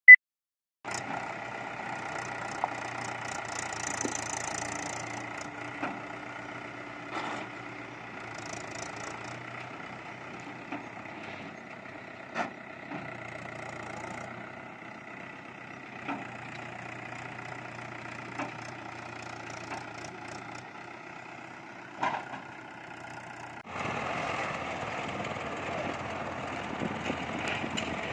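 Mahindra 575 DI tractor's diesel engine running steadily, with a few short sharp knocks along the way. About 24 seconds in, the engine sound steps up louder and rougher.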